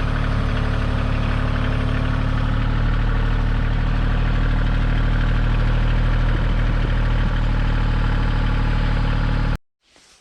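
Kioti tractor's diesel engine running steadily with a low, even drone; it cuts off abruptly near the end.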